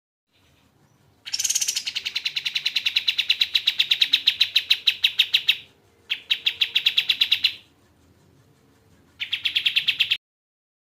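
Kapas tembak songbird singing fast, even trills of rapidly repeated high notes, about ten a second. One long trill lasts about four seconds, a shorter one follows, and a brief one comes near the end.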